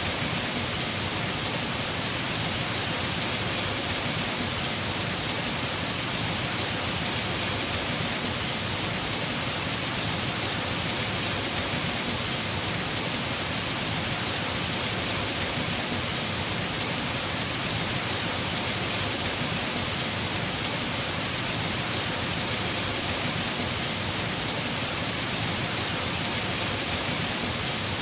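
Heavy rain falling steadily on a house roof, an even hiss with no change or single drops standing out.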